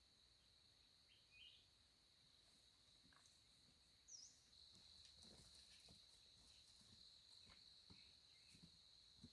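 Faint forest ambience: an insect's steady high-pitched trill, stronger from about halfway, with a couple of short bird chirps and a few faint soft knocks.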